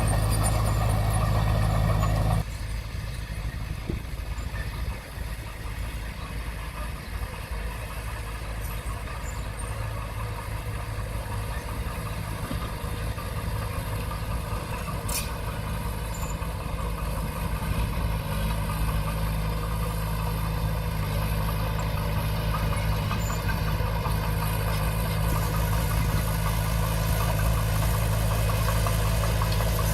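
Komatsu D20P bulldozer's diesel engine running steadily. It drops sharply in level about two seconds in, then slowly builds back up.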